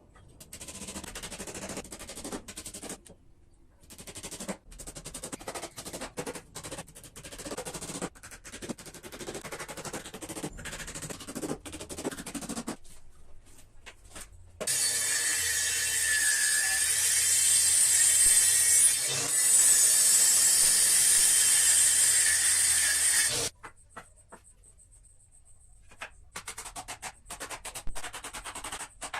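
Workshop tool noise: rapid tapping and knocking, then a power tool running steadily and loudly for about nine seconds, then more tapping near the end.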